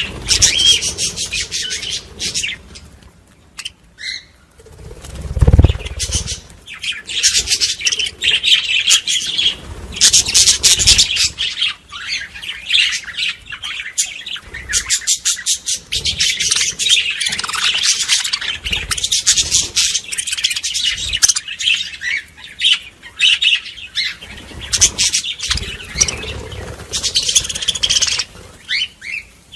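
A flock of budgerigars chattering and warbling non-stop in rapid, busy runs of chirps: the budgie mating chatter. About five seconds in there is a single low thump, the loudest moment.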